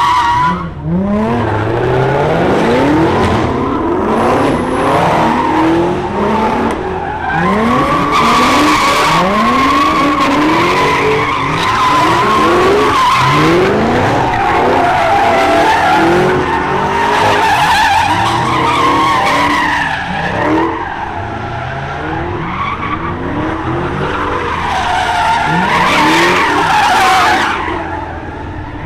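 Cars spinning their tyres: a continuous, wavering tyre squeal with engines revving up again and again underneath.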